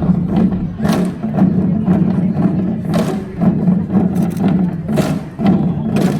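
Korean folk dance music with janggu hourglass drums beating a rhythm, a sharp accented strike about every two seconds with lighter strokes between.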